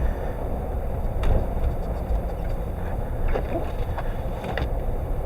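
Inside a moving car's cabin: a steady low rumble of engine, tyres and wind, with a few faint clicks.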